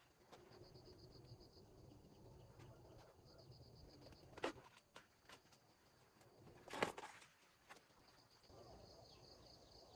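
Faint insect chirping in rapid high-pitched trills that come and go, with two sharp snaps, one about four and a half seconds in and a louder one near seven seconds, over quiet background.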